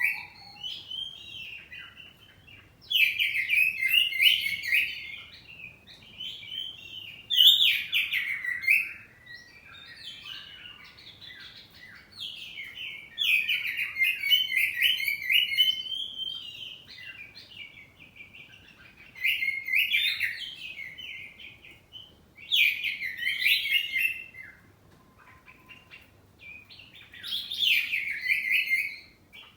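Oriental magpie-robin (kacer poci) singing loud, varied song phrases, each a second or two long, that come again every few seconds with short pauses between them.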